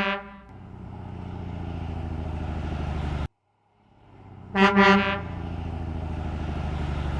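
Truck horn and engine sound effects: the tail of a horn honk, then a steady low engine running and growing louder until it cuts off abruptly about three seconds in. After a short silence the horn gives two quick honks and the engine runs again.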